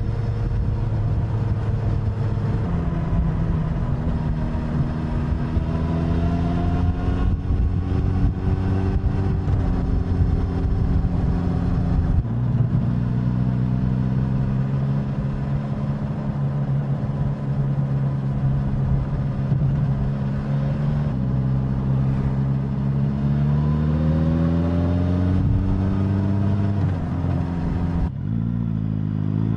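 Suzuki GSX-S1000's inline-four engine and exhaust under way. The engine pitch holds steady for stretches and climbs under acceleration, then drops abruptly at gear changes about twelve seconds in and near the end.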